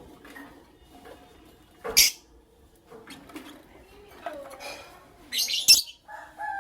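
Lovebirds giving sharp, high-pitched chirps: one loud chirp about two seconds in, a few fainter calls later, and a louder quick run of shrill chirps near the end.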